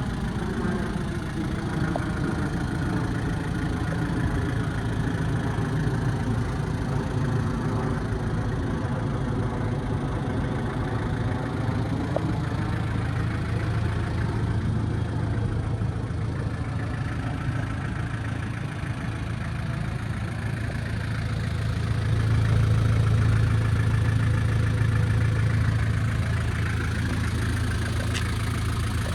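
Nissan TD27 2.7-litre four-cylinder diesel engine running at a steady idle, louder for a few seconds about three quarters of the way through.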